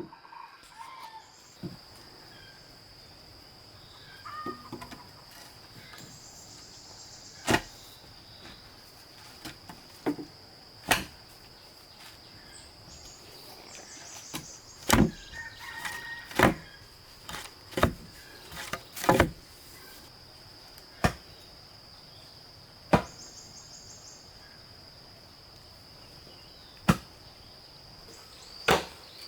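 Sharp knocks at uneven intervals, some in quick pairs and clustered near the middle, over a steady high insect trill.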